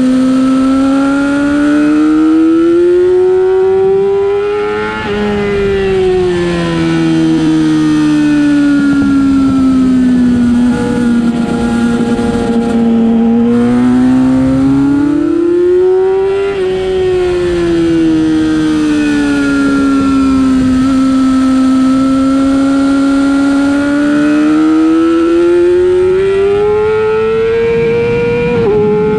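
Superbike engine running hard at a road-race circuit, its pitch climbing under acceleration and falling away under braking several times, with a quick drop near the end like a gear shift.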